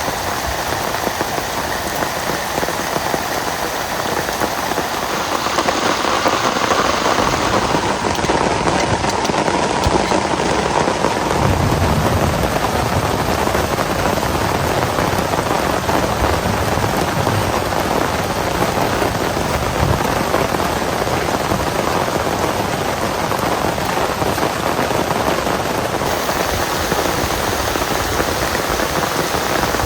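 Heavy rain falling steadily, a dense patter of drops that grows a little louder about six seconds in.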